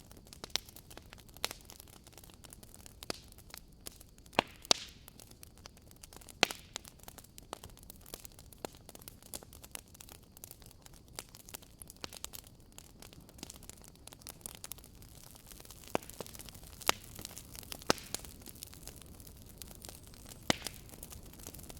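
Wood fire crackling: irregular sharp pops and snaps of burning wood over a faint steady hiss, with a few louder cracks scattered through.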